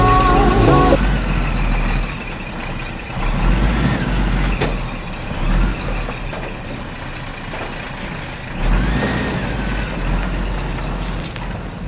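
Background music cuts off about a second in, then a heavy vehicle engine runs with a low rumble that swells and eases several times, with a few faint squealing glides.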